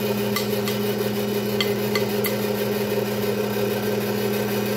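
A steady machine hum at an even pitch, with a few light clicks in the first couple of seconds.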